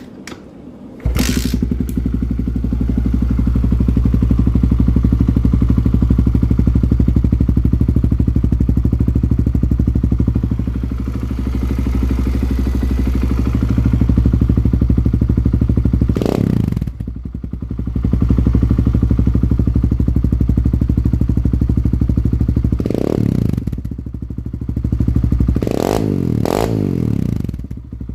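Kawasaki KLX110's small single-cylinder four-stroke engine, fitted with a full FMF header and pipe, cold-started with no choke. It catches about a second in and idles, and the throttle is blipped several times in the second half.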